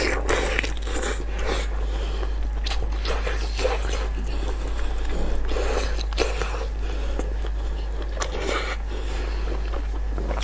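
Wet chewing and lip smacking of a person eating saucy braised meat, with many short squelchy clicks, and squelching as the sauce-coated meat is pulled apart by gloved hands.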